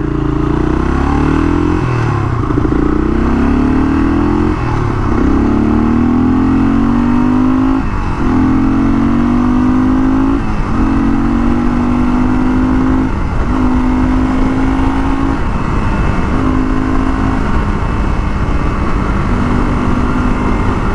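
1982 Honda XL500R's single-cylinder four-stroke engine under hard acceleration while riding, its pitch climbing in each gear and dropping at each upshift, several times over. The shifts come further apart as the gears get higher.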